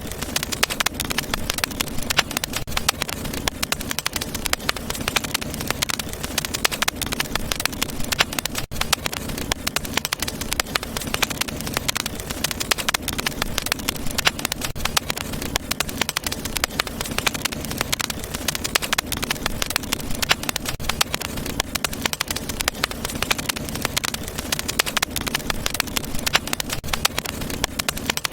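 Wood fire crackling in a fireplace: a dense, irregular stream of small pops and snaps over a steady hiss.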